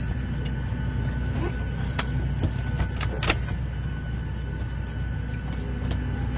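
Airliner cabin noise: the steady low rumble of the engines and airflow with a faint steady high whine, broken by a few light clicks about two to three seconds in.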